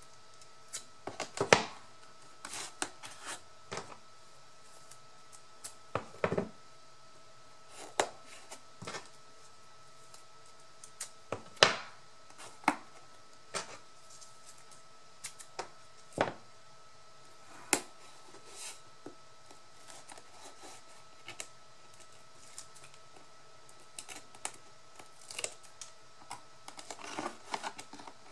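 Irregular clicks, taps and light knocks of hands working paper and cardboard pieces on a work surface, over a faint steady hum.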